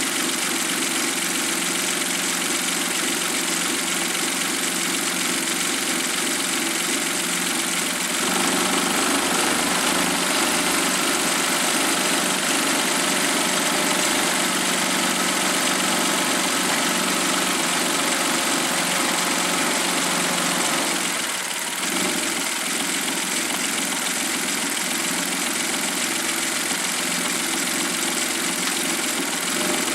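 Suzuki K6A 658 cc three-cylinder turbo engine from a JB23W Jimny idling steadily. About eight seconds in the sound grows a little louder and fuller, and around twenty-one seconds it dips briefly and settles back.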